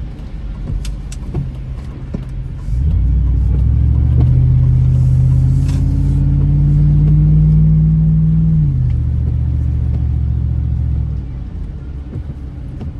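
Car engine and road rumble heard from inside the cabin as the car accelerates: from about 3 s in it gets louder with a slowly rising pitch, the pitch drops suddenly near 9 s, and it eases off again about two seconds later.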